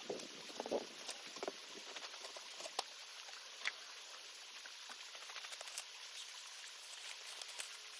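Steady rush of a running creek, with scattered small clicks and knocks over it, several of them close together in the first second and a half.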